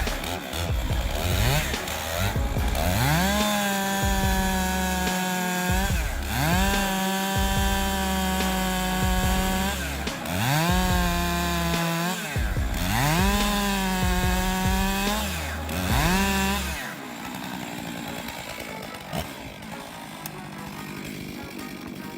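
Chainsaw revved up to full speed and held there, about five times in a row, each run rising quickly to a steady high note and dropping off before the next. About three-quarters of the way through the saw stops, leaving a quieter, noisy background.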